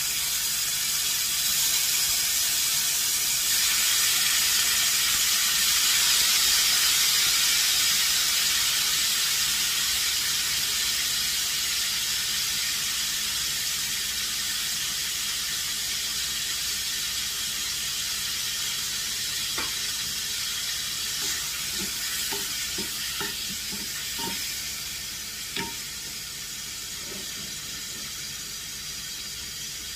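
Paneer cubes sizzling in hot oil in a frying pan: a loud, steady hiss that begins as they go in and slowly dies down. From about two-thirds of the way through, a wooden spatula knocks and scrapes against the pan as the cubes are stirred.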